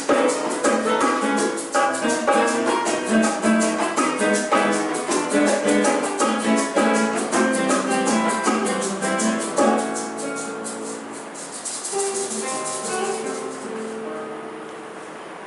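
Classical guitar ensemble playing fast plucked passages over a shaker keeping a quick, even rhythm. About ten seconds in the music thins to a few quiet, sustained notes with a soft high rustle, growing quieter toward the end.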